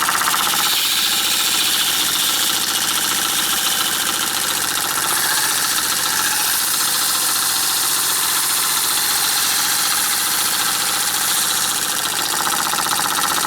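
Empire B43 live steam engine running steadily: a fast, even mechanical beat from the engine with hissing steam.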